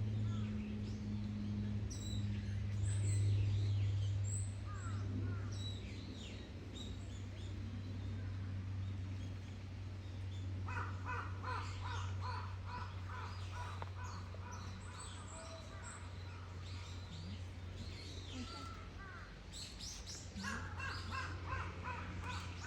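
Bush dogs giving short, high-pitched squeaking calls, scattered throughout, with a run of quick repeated calls from about halfway that pauses briefly and starts again near the end. A steady low hum runs underneath.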